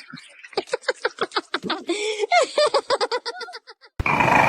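A person laughing in a run of short, quick pulses that tail off. About four seconds in, the sound cuts abruptly to a louder, noisier background.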